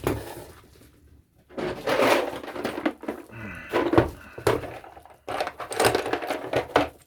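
Hard objects being rummaged through and handled: a knock at the start and another about four seconds in, with spells of clattering and rustling between them.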